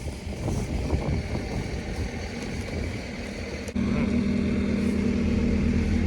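Wind rumbling on the microphone, then a click about two-thirds in and a vehicle engine running with a steady hum.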